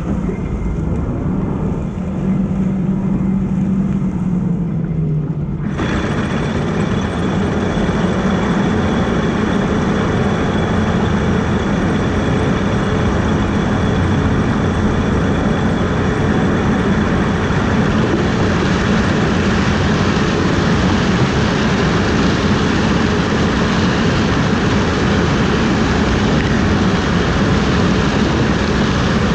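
Heavy harvest machinery running steadily. About six seconds in, a louder, hissier mechanical noise comes in abruptly and holds steady to the end.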